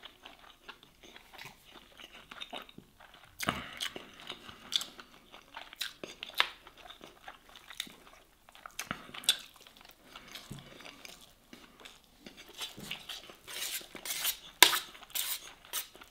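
Close-miked chewing and wet mouth sounds of someone eating grilled masgouf fish and rice by hand, with scattered smacks and clicks. The sounds grow busier toward the end as the fish is handled, with one sharper click among them.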